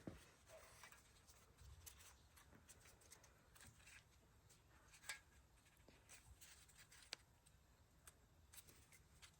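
Near silence with scattered faint clicks and taps, the sharpest about five seconds in and another about seven seconds in.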